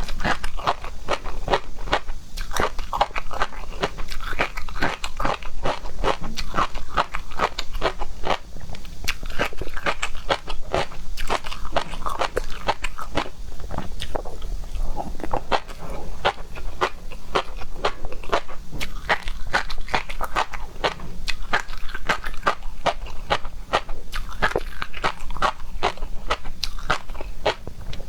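Close-miked chewing of seafood, continuous crunching and mouth clicks coming several times a second.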